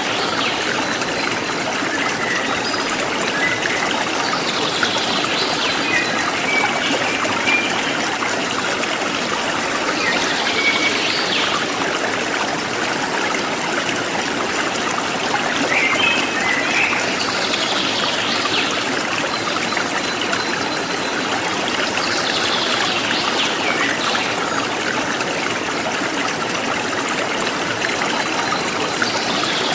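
Forest stream flowing steadily, with short bird chirps every few seconds above the rush of the water.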